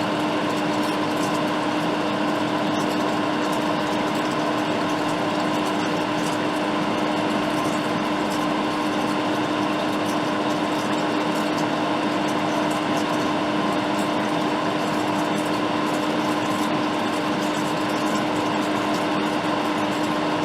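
Hot air rework station blowing steadily onto a logic board: a constant airy rush with a steady hum from its blower.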